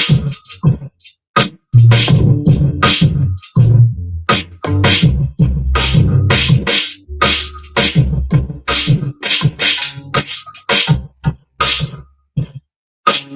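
A hip-hop beat playing from a Maschine MK3: punchy drum hits over heavy sustained bass, with short chopped sample notes. Near the end it thins to a few scattered hits with short silences between them.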